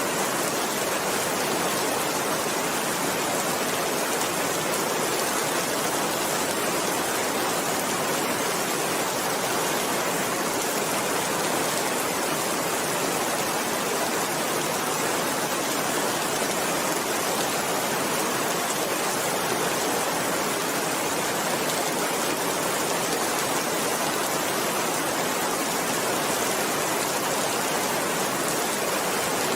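Steady rain falling, an even wash of sound that does not let up or change.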